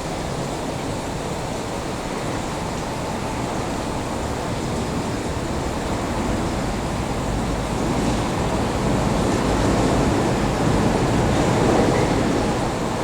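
Train cars rolling slowly along the track, a steady rumble that grows gradually louder.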